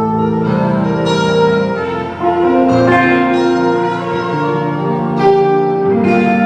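Live band music during a sound check: sustained chords that change every second or two, with no drumbeat.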